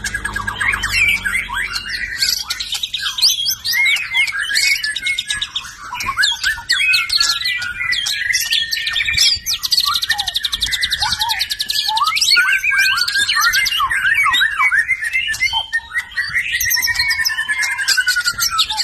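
White-rumped shama singing a continuous, fast-changing song of whistles and chatter, including a long rapid trill in the middle and a falling whistle near the end.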